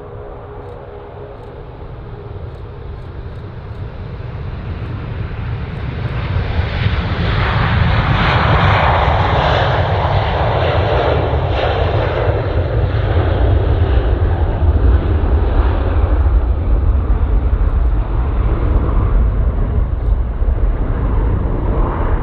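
Jet airliner engines passing close by: a rising rush that peaks about a third of the way in, then a deep, sustained rumble.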